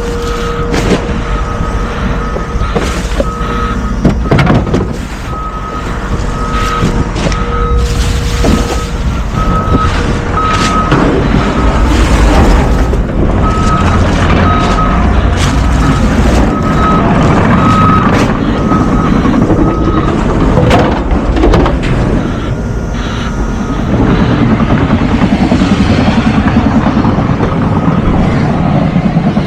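Garbage truck's diesel engine running with its backup alarm beeping about once a second while it reverses; the beeping stops about two-thirds of the way through. Occasional knocks and clunks over the engine.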